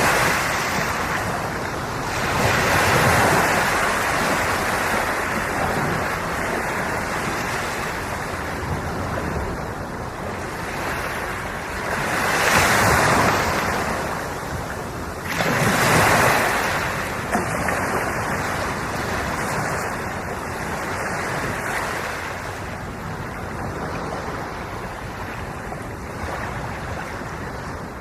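Sea waves washing in continuously, swelling louder as bigger waves come in: once a few seconds in, again about halfway through, and again a few seconds after that.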